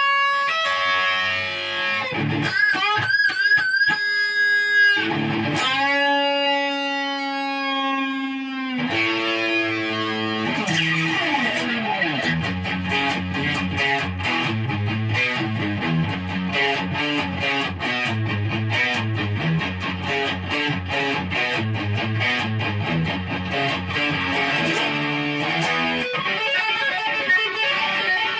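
Electric guitar playing a solo over a band: long held notes with wavering vibrato for the first several seconds, then a fast run of rapid notes over a repeating low chugging riff.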